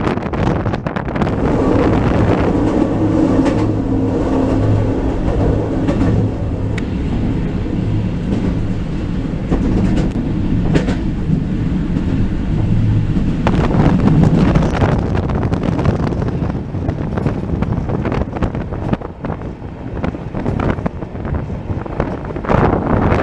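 Passenger train hauled by a ČSD T 478.4 diesel locomotive running along the track, heard from an open carriage window: a steady rumble of wheels on rail with a low drone through the first half and a few sharp clicks over rail joints.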